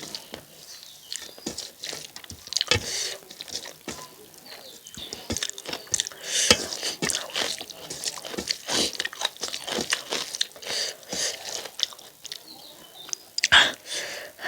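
Close-up eating sounds from a mukbang meal of chicken curry and rice: wet chewing and lip smacks in a quick, uneven run of clicks, with occasional crunches.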